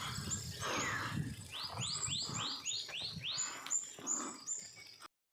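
A bird singing a fast run of repeated rising chirps, about four a second, starting about a second and a half in, over faint outdoor noise; the sound cuts off abruptly near the end.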